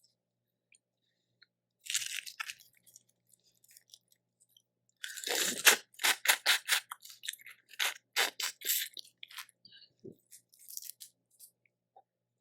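Boiled shellfish shells being cracked and peeled by hand, with crunching and chewing: a loud crackle about five seconds in, then a run of sharp crunches at about three a second, and lighter crackles near the end.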